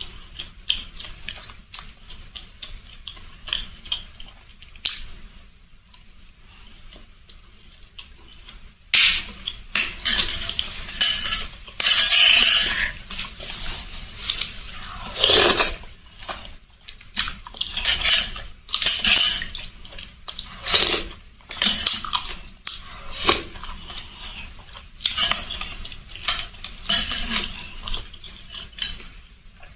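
Close-miked eating of spicy noodle soup: utensils clinking against a bowl, with mouth sounds of eating. The clinks are light and scattered at first, then from about nine seconds in come louder, irregular bursts of eating noise.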